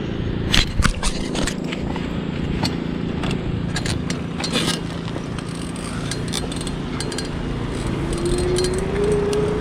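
Riding mower's small engine humming steadily, its pitch rising over the last couple of seconds as it comes up the road. A few sharp clicks and clinks about half a second to a second and a half in.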